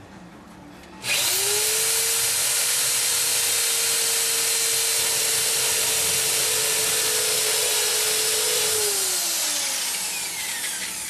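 Handheld electric power tool started about a second in, running steadily at full speed with a hissing, whining note for about eight seconds, then released and winding down with a falling pitch.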